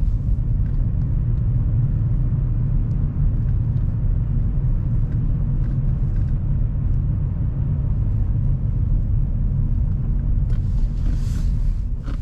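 Car driving, with a steady low engine and road rumble. A brief hiss rises near the end.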